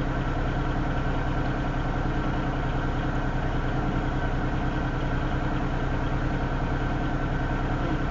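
Diesel-electric freight locomotives idling at a standstill: a steady, unchanging engine hum.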